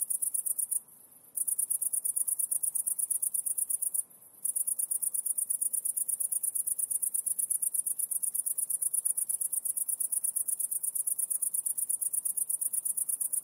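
Insect trilling: a rapid, even, high-pitched pulsing that breaks off briefly about a second in and again about four seconds in.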